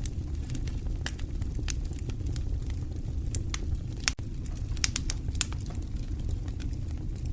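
Fire crackling: irregular sharp pops and snaps over a steady low rumble, with a momentary break in the sound about four seconds in.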